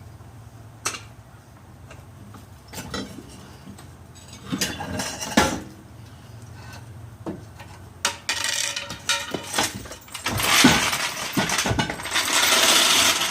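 Metal hand tools and parts clinking and scraping against steel: scattered sharp clinks, then a longer stretch of harsher rasping metal noise near the end.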